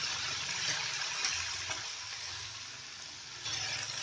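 Onion puree sizzling in hot oil in a pan, the sizzle dying down steadily after it goes in. About three and a half seconds in, the sizzle briefly swells as the pan is stirred.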